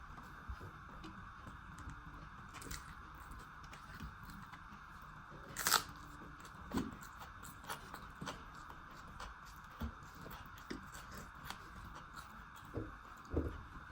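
A person eating close to the microphone: soft chewing and mouth clicks, with a sharper crunch or smack a little before the middle of the clip, over a steady hiss.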